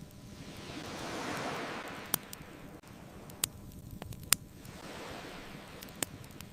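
Ocean waves washing in over the crackle of a wood bonfire. One wave swells and falls away in the first two seconds and a smaller one follows near the end. Four sharp pops from the fire stand out between them.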